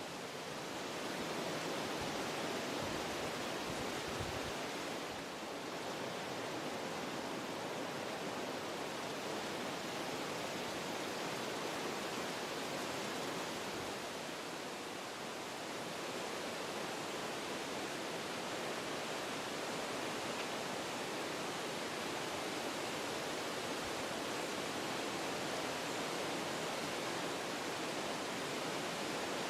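Wind blowing through forest trees, a steady rushing through the leaves and branches that eases slightly twice, about five and fifteen seconds in.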